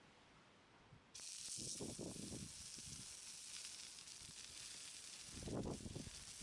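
Meat sizzling on a hot iron griddle plate: a steady hiss that starts abruptly about a second in. Irregular low rumbles and knocks sound under it, loudest near the end.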